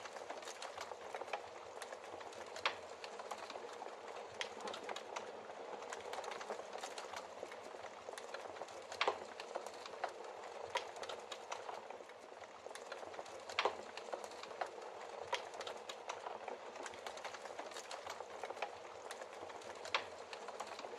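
Wood fire burning in a fireplace: a steady hiss of flame with frequent sharp crackles and pops from the logs, a few of them louder.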